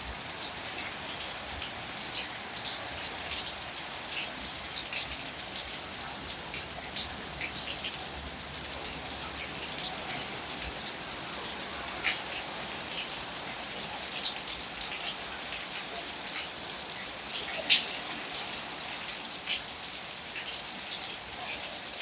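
Thunderstorm rain falling steadily, an even hiss with frequent sharp ticks of single drops landing close by.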